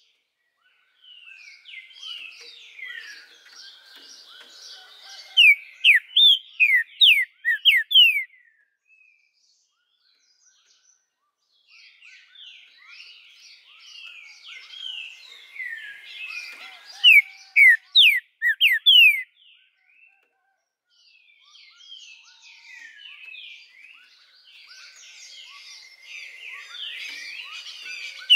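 Green-winged saltator (trinca-ferro) singing in three bouts. Each bout is a run of rapid, quieter twittering notes that ends in several loud, sharp, falling whistles.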